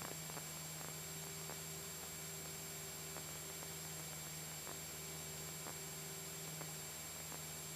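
Faint, steady hum of a Cessna 172SP in cruise under an even hiss, with a few faint, irregular ticks.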